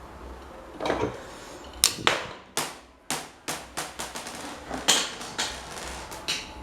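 Hammer striking a metal part: about fifteen sharp, irregular blows, each ringing briefly.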